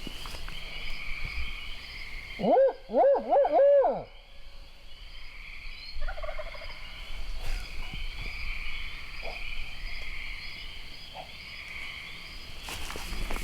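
About four loud hoots that rise and fall in pitch, like a barred owl calling, come a couple of seconds in and last about a second and a half. Behind them runs a steady high-pitched chorus of frogs.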